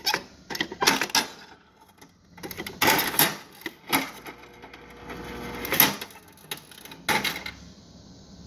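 A series of knocks, clicks and clatters from things being moved around while rummaging in a refrigerator freezer for ice.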